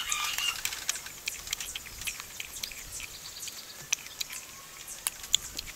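Crunching and chewing of crisp pickled green mango slices: irregular sharp clicks and crackles, with a couple of louder crunches about four and five seconds in.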